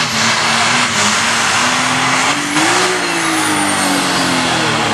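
Light Pro Stock pulling tractor's turbocharged diesel engine at full power under load as it pulls the sled, loud and steady, its pitch rising slightly about two and a half seconds in.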